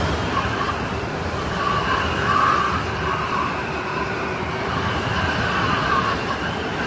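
Strong snowstorm wind blowing steadily, a dense rushing noise with a whistling tone that swells and fades twice.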